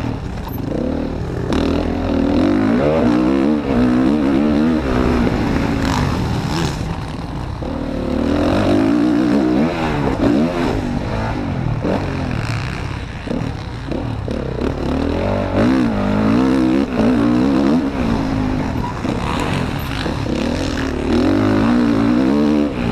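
Motocross bike engine heard from on board, revving up and falling back again and again as the rider accelerates and rolls off around the track, with a few sharp knocks.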